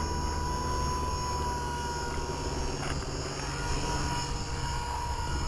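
Blade 200 SRX electric RC helicopter flying as it is brought in to land: a steady high motor whine over the whir of the rotor blades.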